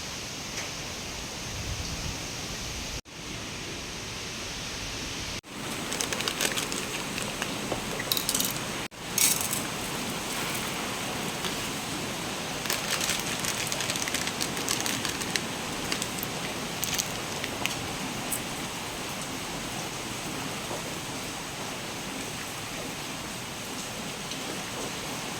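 Steady hiss of typhoon rain, with small clicks and taps of things being handled through the middle. The sound drops out for an instant three times in the first nine seconds.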